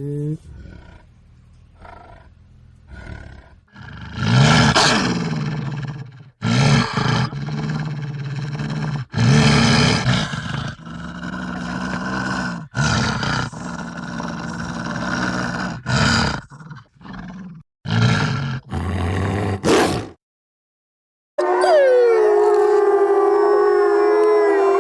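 A run of deep animal roars from a large predator, each cut off abruptly one after another. After a moment of silence near the end, several overlapping howls start.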